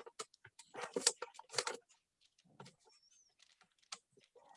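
Wrapping paper crinkling and crackling as it is folded around the end of a gift box: a run of short, sharp clicks, busiest in the first two seconds, then sparse and faint.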